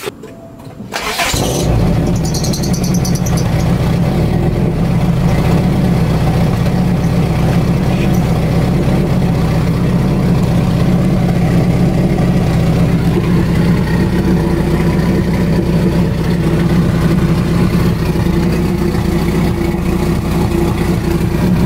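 Honda Accord CB7 four-cylinder engine starting about a second in, then idling steadily through a custom exhaust that has no muffler fitted yet.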